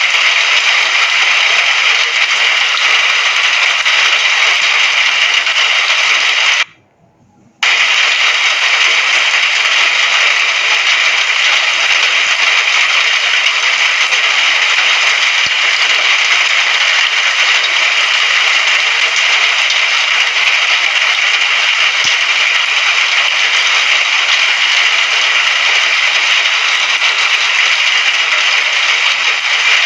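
Rain falling steadily, an even dense noise with no thunder, that cuts out almost completely for about a second some seven seconds in.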